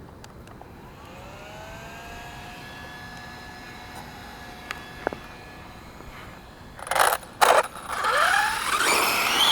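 Small cooling fans spinning up with a rising whine that settles into a steady hum. About seven seconds in come two loud short bursts, then the 1/5-scale Redcat Rampage MT truck's drivetrain spins up with a rising whine and loud running noise as it is run to test the repaired rear differential crown gear.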